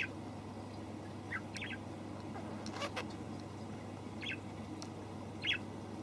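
Small bird giving short, high chirps every second or so, about six in all, with a sharp click about halfway through.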